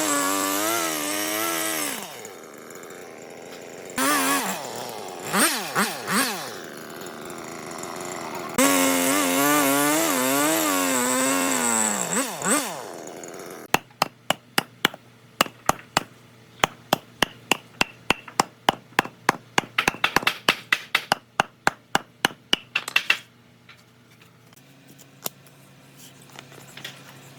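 A handheld power tool cutting into wood, its motor pitch wavering under load, in two long runs with short bursts between them. It is followed by a rapid series of sharp knocks, about three a second, lasting roughly nine seconds.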